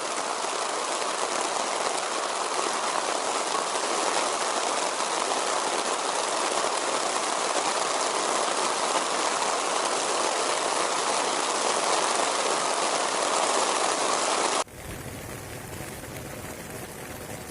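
Heavy rain falling steadily in a loud, dense hiss. Near the end it cuts off abruptly to a much quieter, softer hiss.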